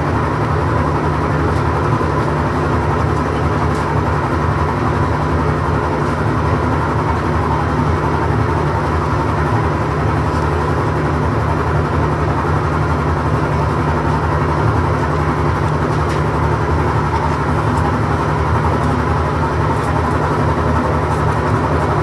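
A loud, steady machine hum: a low drone with a constant thin whine above it, unchanging throughout.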